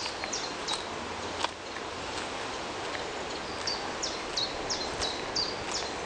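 A songbird sings runs of short, high notes, each falling in pitch, about three a second, starting again about halfway through. Underneath is a steady outdoor hiss with a few faint footfalls on a dirt path.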